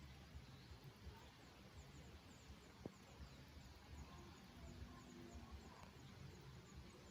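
Faint small-bird chirps, short high notes repeating over a low background rumble, with a single sharp click about three seconds in.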